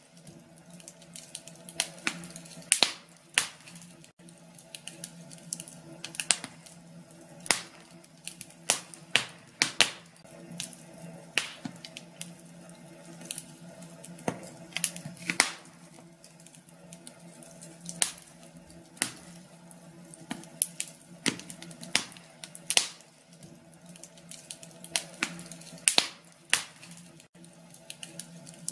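Wood fire in a fireplace crackling, with irregular sharp pops and snaps several times a second over a faint steady low hum.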